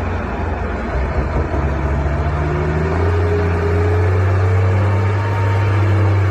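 Heavy logging truck's diesel engine running steadily, its pitch rising a little over the first few seconds and then holding.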